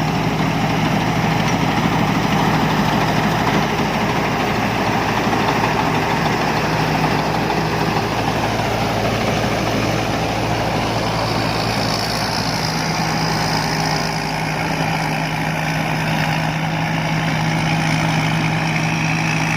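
Combine harvester's engine running steadily with an even low hum.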